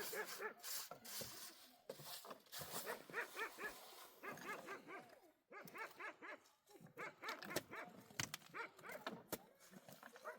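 Dog yelping and whining: many short, high calls in quick succession, with brief pauses.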